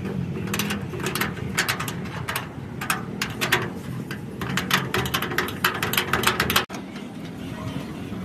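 Quick, sharp clicks and taps of hand-tool work in irregular runs, cutting off abruptly about two-thirds of the way through.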